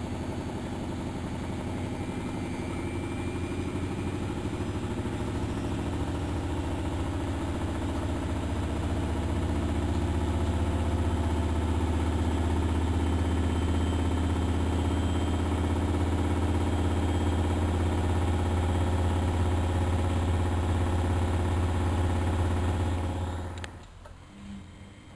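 Miele Novotronic washing machine running with a steady low hum from its motor and drum. The hum builds over the first several seconds, holds level, then drops away abruptly near the end.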